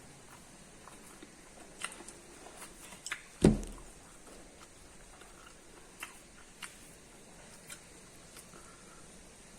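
Eating corn: scattered small crisp clicks of biting and chewing kernels, with one loud dull thump about three and a half seconds in.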